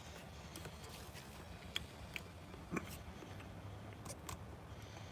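A person chewing food, with scattered small mouth clicks, over a low steady hum.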